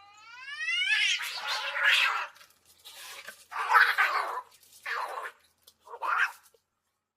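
An angry kitten's rising yowl running straight into a long hiss, followed by three shorter hisses about a second apart.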